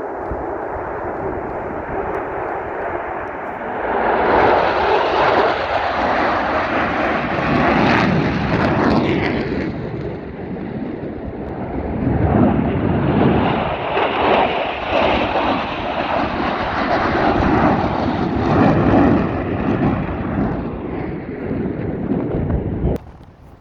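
Aircraft engine noise from a plane flying past during an aerobatic display. It grows loud twice, with a short dip between the swells, and cuts off abruptly near the end.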